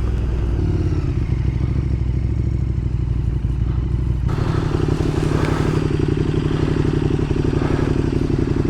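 Motorcycle engine running at low speed with a steady throb. About four seconds in, the engine note lifts a little and a rushing hiss joins it.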